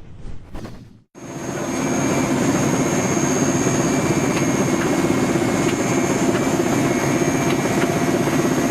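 Helicopter turbine and rotor running steadily and loudly, a dense rush with a fast pulsing chop and a steady high whine, starting abruptly after a brief break about a second in.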